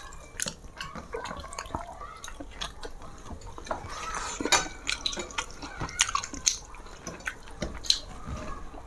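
Close-miked eating of rice and fish curry: wet chewing and lip smacks with scattered sticky clicks, busiest in the middle.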